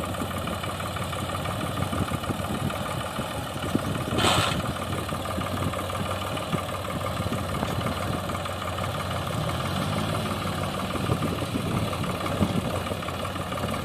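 ACE 450 45 HP tractor's diesel engine running steadily at low revs, with a brief noisy burst about four seconds in.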